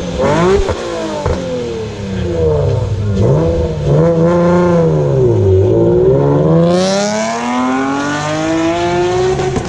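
Nissan Z-car V6 revved through a loud aftermarket exhaust: a few quick blips, several rises and falls in revs, then a long climb to high revs held near the end.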